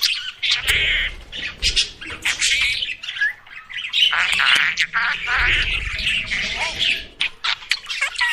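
Budgerigars chattering: a fast run of chirps, squawks and warbling notes with clicks and short pitch glides, hardly pausing.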